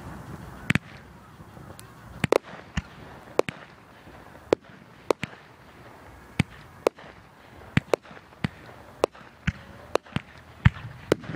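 Fireworks going off: a long run of sharp bangs at uneven intervals, one or two a second, the loudest near the end.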